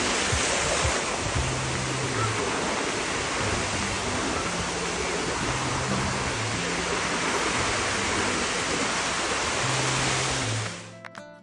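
A steady rushing noise, like surf or running water, over background music with low sustained bass notes. Near the end the rushing noise cuts off suddenly, leaving the music with plucked guitar notes.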